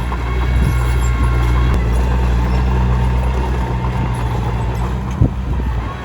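Komatsu D21P small bulldozer's diesel engine running steadily, with scattered clicks and one sharp knock about five seconds in.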